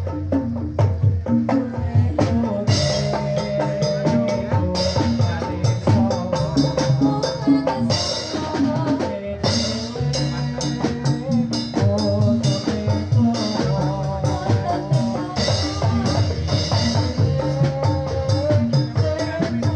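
Live Javanese jathilan ensemble music: drums beating a dense, driving rhythm under held pitched tones, with bright metallic crashes recurring every second or two.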